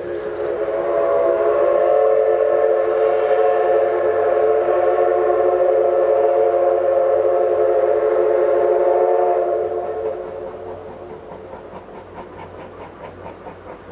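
Steam whistle of the C11 class steam tank locomotive C11207 sounding one long chord-like blast of several steady tones for about ten seconds. As the whistle dies away, the locomotive's exhaust chuffs come through at about three beats a second as it works its train.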